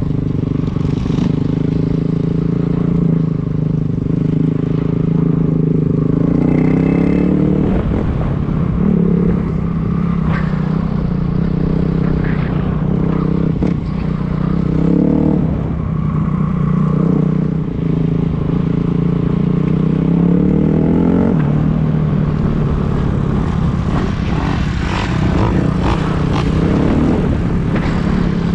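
Dirt bike engine running while riding, its pitch rising and falling with the throttle, with scattered knocks and rattles along the way.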